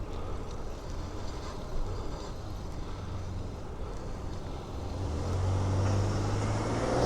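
Road traffic heard from a moving bicycle: a steady low rumble, with a motor vehicle's engine hum growing louder over the last two seconds as it approaches.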